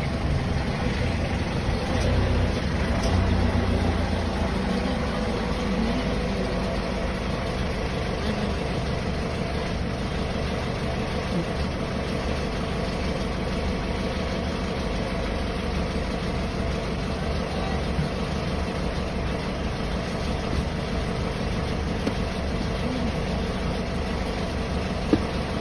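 Car engine idling steadily, heard from inside the car: an even low hum.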